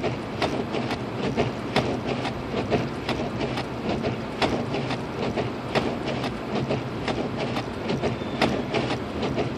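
Cabin noise of a Lexus IS250 AWD driving down a snow-covered hill: a steady low drone of engine and tyres, with irregular clicks and ticks throughout.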